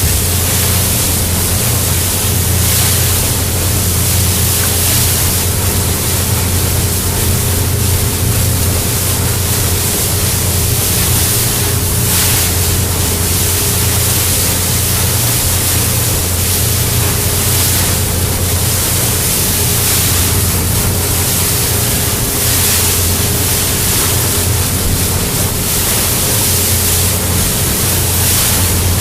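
Boat engine running steadily under way, a low drone with a faint steady whine, beneath a loud continuous rush of wind and water.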